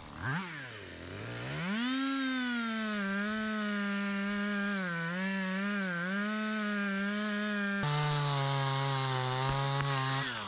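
Two-stroke chainsaw revved in a few quick blips, then held at high revs with its pitch wavering as it cuts wood. About eight seconds in, the pitch drops abruptly to a lower, steadier note.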